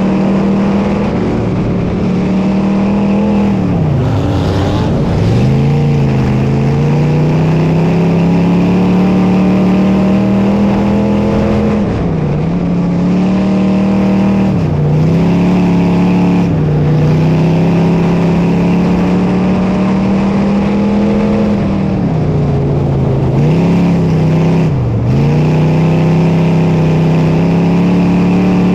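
Dirt modified race car engine running hard at high revs, its pitch dropping sharply and climbing back several times as the throttle is lifted and reapplied.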